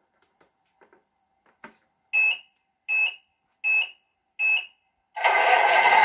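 Four short electronic beeps at one high pitch, evenly spaced, from the Tamiya Scania R620 RC truck's electronics powering up. About five seconds in, a loud steady sound starts.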